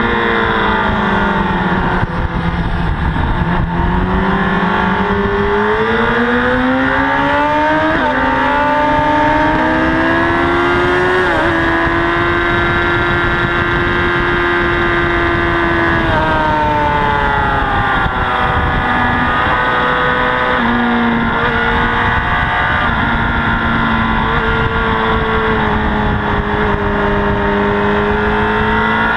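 Honda CBR1000RR inline-four engine heard from on board at track speed, with wind rush: the revs drop at first, then climb through the gears with a shift about eight seconds in, hold high and steady for several seconds, fall away with stepped downshifts, and rise again near the end.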